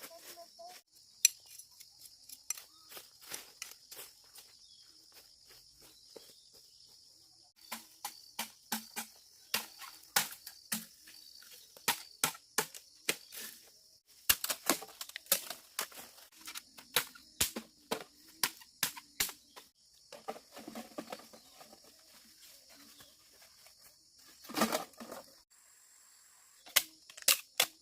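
Irregular sharp knocks and clacks, coming in runs of several a second with short pauses, over a steady high drone of insects that breaks off now and then.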